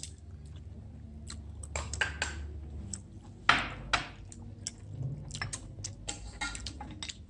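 Meal-table sounds: scattered clicks and clinks of chopsticks and dishes, with chewing and a short noisy rustle about three and a half seconds in.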